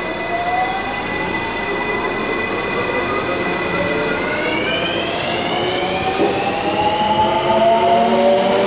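Electric train's traction motors whining as it accelerates away, several tones climbing in pitch together, with one stepping up partway through.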